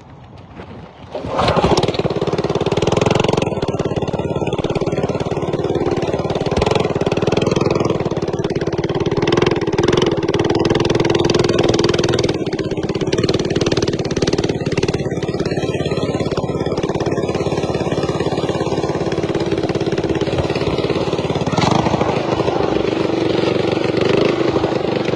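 Mini bike's small engine starting up about a second in and then running steadily at an even pitch as the bike is ridden.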